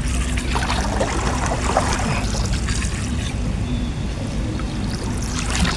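Water splashing and trickling in irregular bursts, over a steady low rumble.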